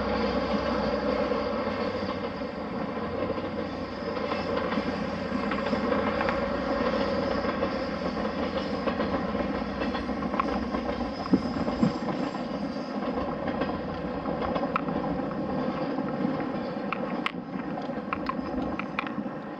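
A train running on rails, a continuous steady rumble, with a few sharp clicks in the last few seconds.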